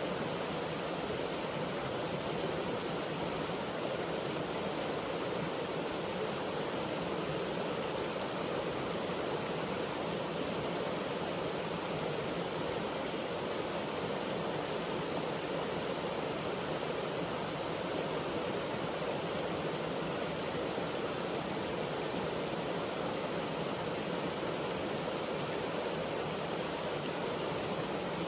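A brook's running water, a steady, even rush with no breaks.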